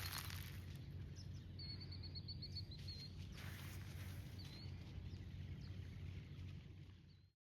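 Outdoor ambience with a steady low rumble, and a small songbird giving a quick high trill of about ten even chirps a second and a half in. A few single high chirps follow, and the sound cuts off abruptly just before the end.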